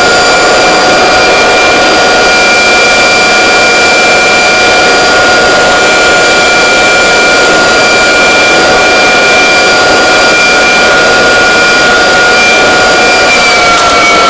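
Kirby vacuum cleaner motor running steadily, a loud rushing of air with a high whine. The whine drops slightly in pitch near the end.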